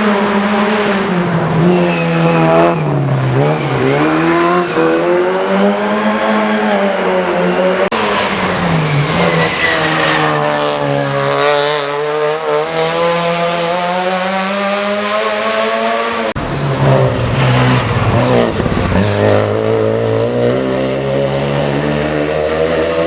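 Hill-climb race car engine at high revs, its pitch repeatedly rising and then dropping as it accelerates and shifts through the gears. The sound changes abruptly about two-thirds of the way through.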